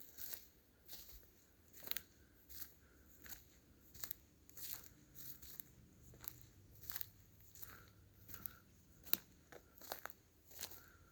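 Footsteps crunching on a forest path, a steady walking pace of about three steps every two seconds.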